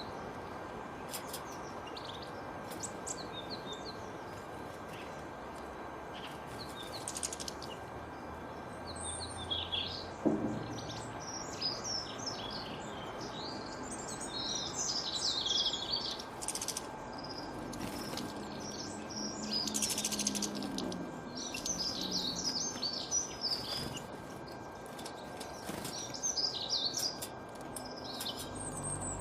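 Several small songbirds chirping and twittering in quick, overlapping high phrases over a steady background hiss. A single sharp knock sounds about ten seconds in.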